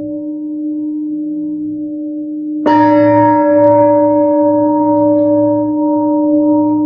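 A singing bowl ringing with a steady deep tone, struck again and louder about two and a half seconds in; its high overtones fade over a few seconds while the deep tone rings on.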